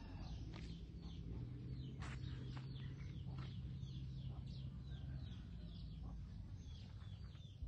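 Birds chirping over and over in short falling calls, several a second, with a low steady hum underneath.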